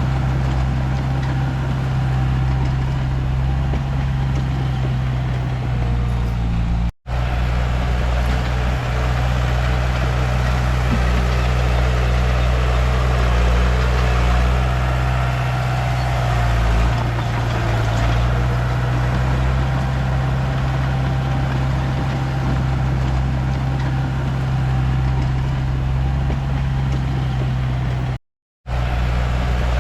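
Diesel engine of a Komatsu D31P bulldozer running steadily as it works, its pitch shifting a little around the middle. The sound cuts out for an instant about seven seconds in and again for about half a second near the end.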